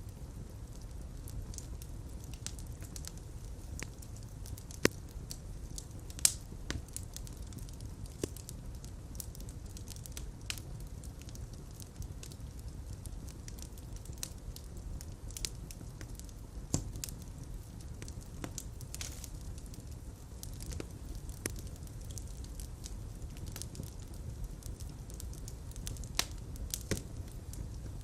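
Fire crackling in a fireplace: scattered sharp pops over a steady low rumble of flames. A few pops stand out louder, about five and six seconds in and again near the end.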